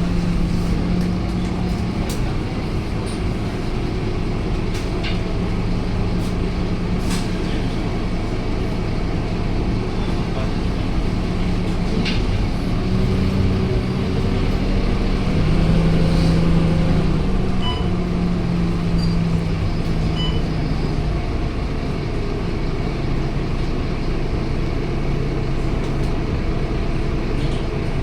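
Scania K230UB city bus's diesel engine running in service, its steady engine note shifting in pitch a few times as the bus drives.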